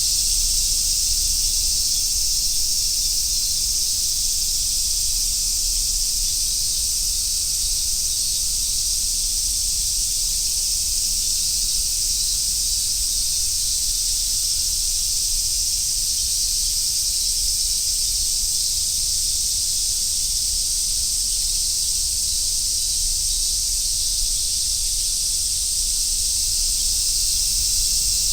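Chorus of summer cicadas singing, a dense high sizzling hiss held steady without a break.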